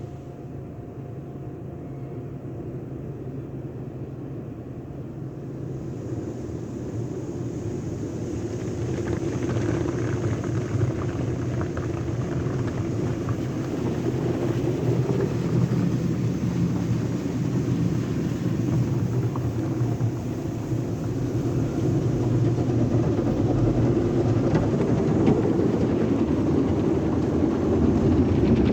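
Automatic car wash tunnel equipment running as a steady, noisy rumble, growing louder and fuller from about six seconds in.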